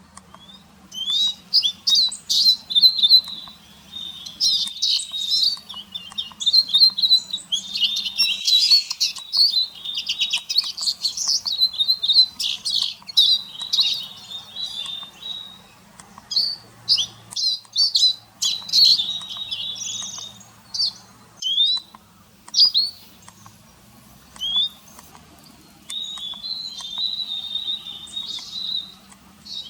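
Small songbird twittering: long, fast runs of high chirps and trills with brief pauses between phrases.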